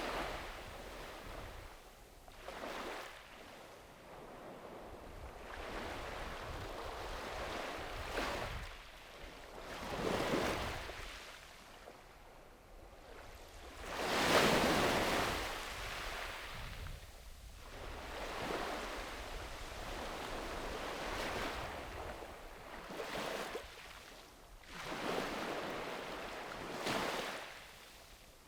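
Small waves breaking and washing up on a sandy beach, a rush of surf swelling and fading every few seconds, one break about halfway through louder than the rest, with a low wind rumble on the microphone underneath.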